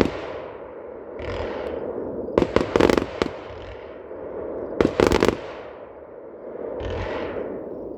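Aerial fireworks display: a volley of several sharp bangs in quick succession about two and a half seconds in and another about five seconds in, with hissing launches and a rumbling echo between them.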